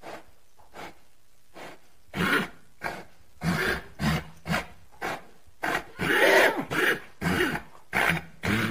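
Rhythmic rasping rustles in grass, about two a second, becoming louder about two seconds in.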